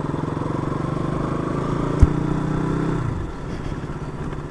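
KTM RC 200's single-cylinder engine running under way, its note climbing slightly. There is a sharp knock about two seconds in, and the engine note drops off about a second later.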